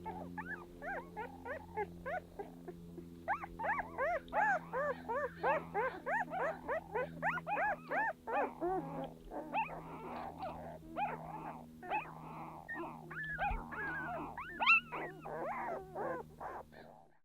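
A litter of young German Shepherd puppies squeaking and whimpering, with many short rising-and-falling squeals overlapping several times a second. A steady low hum runs underneath.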